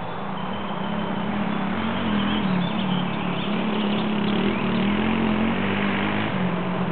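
Single-cylinder dirt bike engine running steadily, its pitch wavering slightly up and down with the throttle, over a broad rushing noise.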